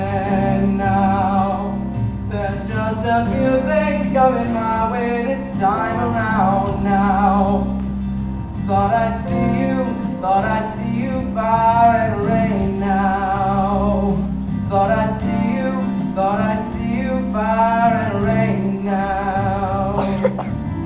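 Live band music with a male singer holding long, wavering notes without clear words, over guitar and a steady low bass note.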